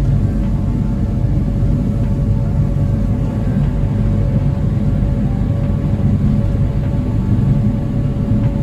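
Small passenger ferry's engines running steadily under way: a loud, even low drone with a held hum over it.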